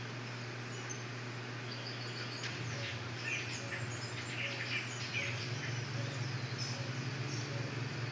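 Canaries chirping and twittering in quick, high, short calls, starting about two and a half seconds in, over a steady low hum.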